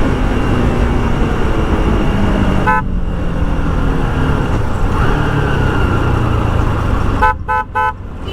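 Bajaj Pulsar RS 200's single-cylinder engine running on the move under road and wind noise, its note falling as it slows and then holding steady. A short horn beep sounds about three seconds in, and three quick horn beeps come near the end.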